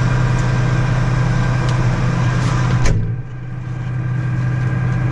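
Heavy farm machinery engine running steadily with a low hum. About three seconds in there is a sharp click, after which the higher hiss drops out and the sound goes a little quieter while the engine keeps running.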